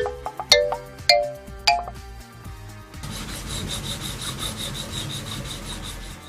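Cartoon sound effects over background music: a quick run of bell-like chime notes in the first two seconds, then from about three seconds in a rapid, even rasping scrape that runs on.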